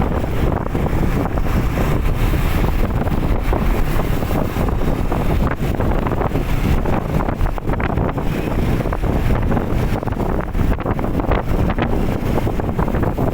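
Wind buffeting the microphone: a loud, steady rumbling rush with no break.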